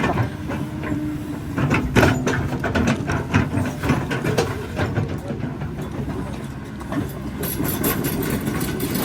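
Motorcycle engine running, with frequent rattles and knocks over it.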